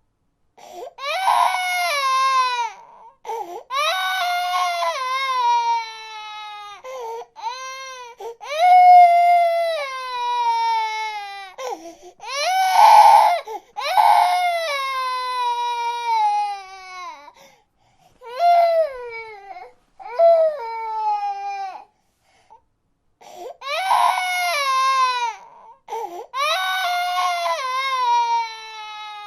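Baby crying in a series of wails, each falling in pitch, with short catches of breath between them and a brief lull about two-thirds of the way through.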